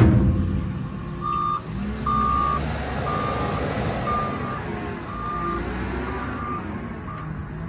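Backup alarm of a Cat 938M wheel loader beeping about once a second, over the steady rumble of the machine's diesel engine, as the loader reverses.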